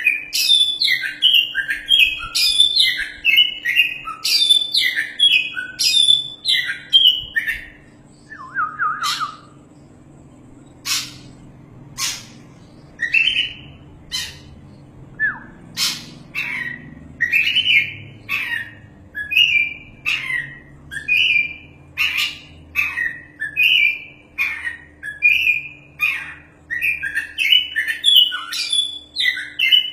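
Oriental magpie-robin singing loudly: a rapid, varied run of short whistled and harsh notes mixed with sharp clicks, breaking about a third of the way in to a few isolated clicks before the song starts up again.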